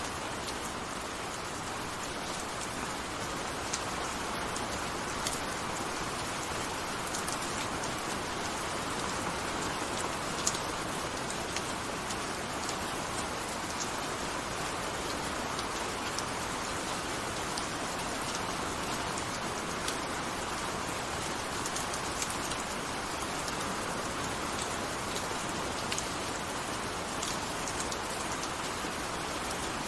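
Steady gentle rain falling, an even hiss with scattered separate drops ticking on a surface.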